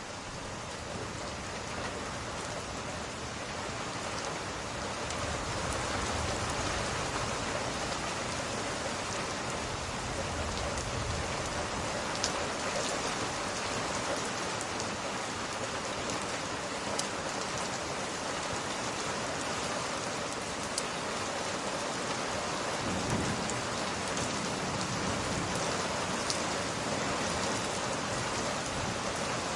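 Steady rain falling on a surface, swelling a little at first, with scattered sharp ticks and a few low rumbles of distant thunder.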